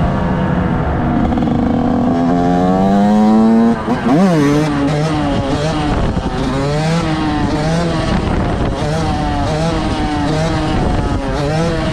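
Motorcycle engine revving hard: the pitch climbs steadily for about four seconds, cuts off sharply, then goes into a run of quick throttle blips that rise and fall about once or twice a second.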